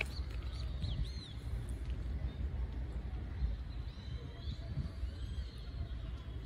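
Outdoor background: a few faint, short bird chirps over a steady low rumble.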